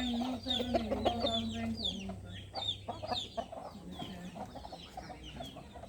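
Chickens calling: a quick, continuous run of short, high-pitched, falling calls. A low steady hum runs underneath and stops about two seconds in.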